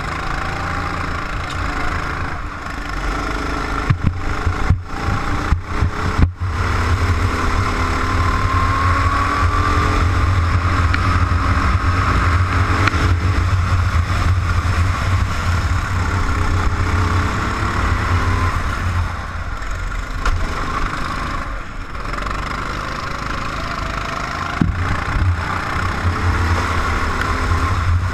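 Go-kart engine running at race speed, heard from onboard, its pitch rising and falling with the throttle, with a few short knocks in the first seconds.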